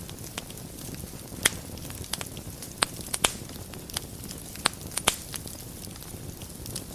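Wood fire crackling in a fireplace: a steady low rustle with about six sharp pops, the loudest about a second and a half in and a quick cluster around five seconds in.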